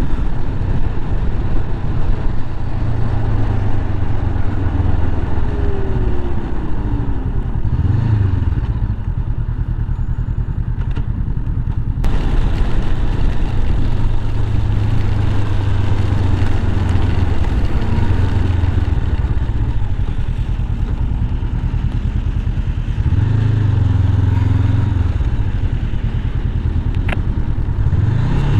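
Motorcycle engine running at road speed, with wind rushing over the helmet microphone. The engine note shifts about a third of the way in and again near the end.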